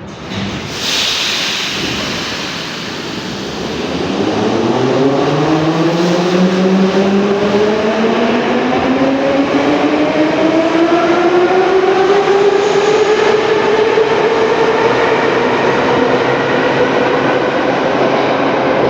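Metro train pulling out of a station: a short hiss of air about a second in, then the traction motors' whine rising steadily in pitch as the train accelerates.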